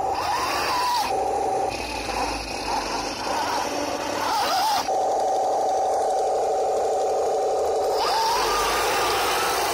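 RC tank sound unit playing its engine sound through a small speaker, mounted in a 1:16 M26 Pershing. The pitch rises in revs about a second in, again just before the middle and near the end, with a steady running tone between.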